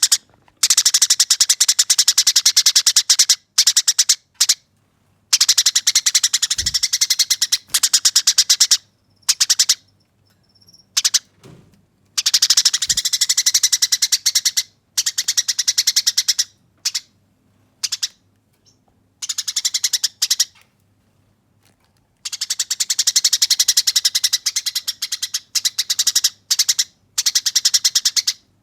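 Eurasian tree sparrow giving its aggressive fighting call: long rolling runs of very rapid, harsh yet clear chattering chirps. Each run lasts from under a second to about three seconds, with short pauses between them.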